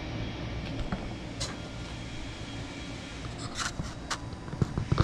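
A few light clicks and scrapes from metal grill parts being handled, over a steady low background hum.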